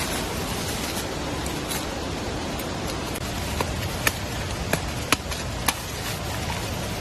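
Steady hiss of rain in forest, with a handful of sharp ticks or knocks in the second half.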